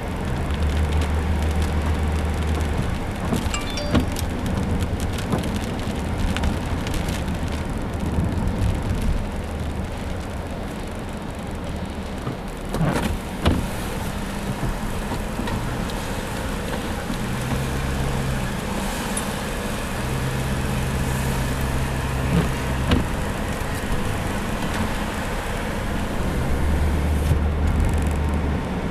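Steady low rumble of a vehicle's engine and road noise heard inside the cabin, with a few knocks about halfway through.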